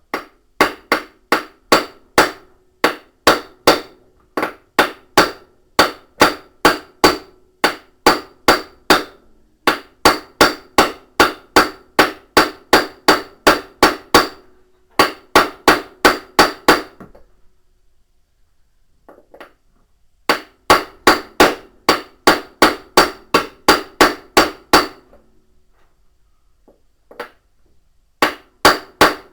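Hammer driving a bearing into a washing machine's tub housing by blows on its outer part: long runs of evenly spaced metallic strikes, about three a second, each ringing briefly. The hammering stops twice and starts again.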